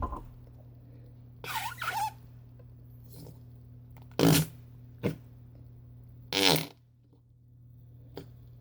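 Flarp noise putty squished in its container, giving short fart-like noises: about four separate bursts, the first with a wavering pitch.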